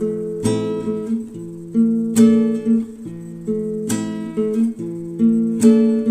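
Background music: acoustic guitar strumming chords, one strum roughly every second and a half to two seconds, each ringing out.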